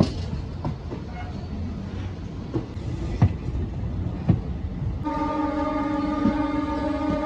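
Passenger train rolling along with its wheels knocking over rail joints and points at irregular intervals. About five seconds in, a train horn starts a long, steady blast that is still going at the end.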